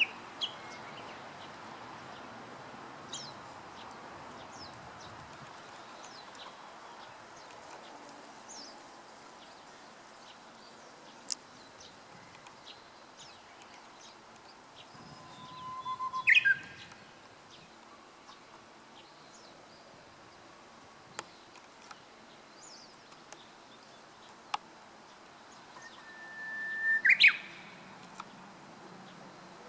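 Japanese bush warbler singing its "hoh-hokekyo" song twice, about 16 seconds in and near the end. Each song is a long held whistle followed by a quick, loud flourish. Faint short chirps are scattered in between.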